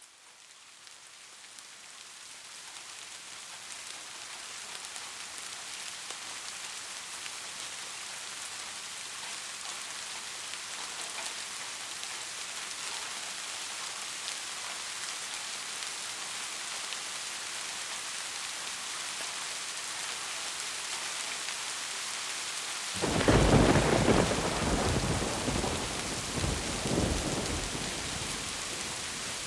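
Heavy rain falling in a steady hiss, fading in over the first few seconds. About three-quarters of the way through, a thunderclap breaks in suddenly, the loudest sound here, and rumbles and rolls on for several seconds.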